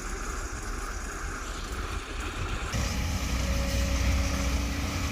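Heavy diesel machinery running with a steady engine rumble. About two and a half seconds in it grows louder and deeper, and a steady whine joins it.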